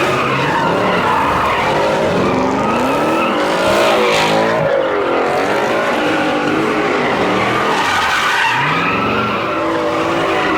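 V8 muscle car engine revving hard while its rear tyres squeal and slide in a drift. The engine pitch climbs and falls several times under a continuous screech of tyre noise.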